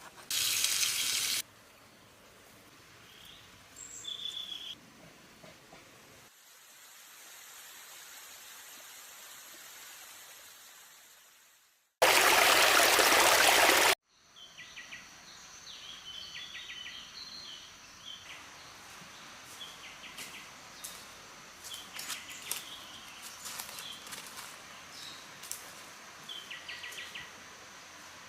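Forest ambience of birds chirping, cut abruptly several times. The cuts bring in two loud bursts of rushing, water-like noise, one about a second long at the start and a two-second one about twelve seconds in, and a steady high hiss before the second burst.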